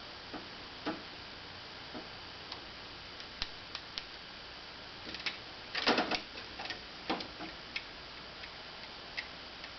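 Scattered small plastic clicks and taps from handling a vacuum cleaner's telescoping wand and its small electrical connector, with a short burst of clatter about six seconds in.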